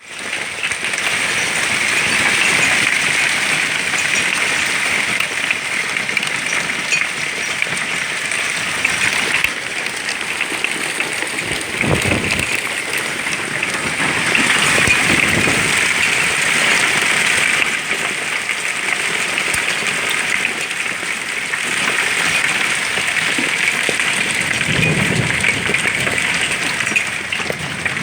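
A hailstorm: dense, steady clatter of hailstones pelting down, with a low rumble twice.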